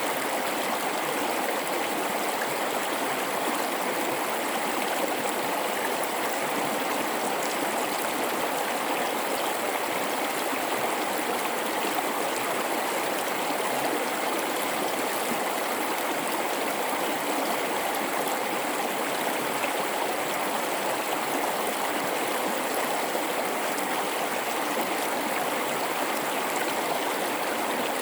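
River in a gorge flowing, a steady, even rush of water.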